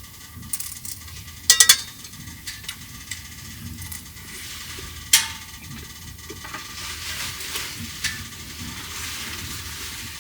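Scattered sharp clicks and knocks, with a quick run of four clicks about a second and a half in and one sharp click about five seconds in, over a faint steady background.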